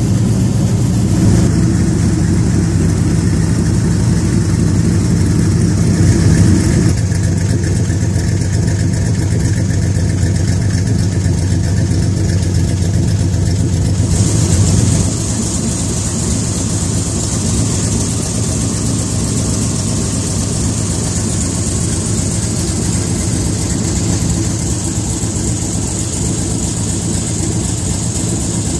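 Modified V8 of a 1977 Corvette idling steadily through side-exit exhaust pipes. It is slightly quieter from about halfway on.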